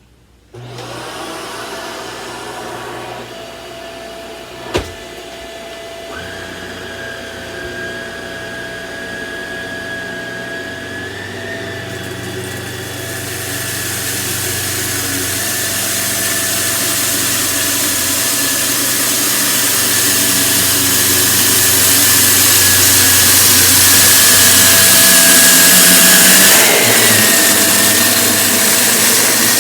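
Samsung CycloneForce upright vacuum switching on about half a second in and running with a steady motor whine, with one sharp click a few seconds later. Its rushing hiss grows louder through the second half as it is worked over rice scattered on the floor.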